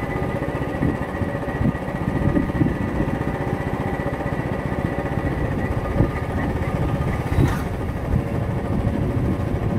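Royal Enfield single-cylinder motorcycle engine running steadily under way, with a rapid, even beat of low exhaust pulses. A brief sharp click sounds about seven and a half seconds in.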